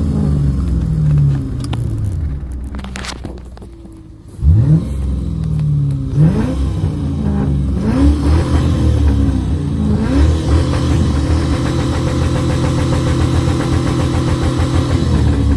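V8 car engine revved in neutral: the revs fall away over the first few seconds, then a sharp rev about four seconds in is followed by a few quicker blips, before the engine settles into a steady, lumpy idle.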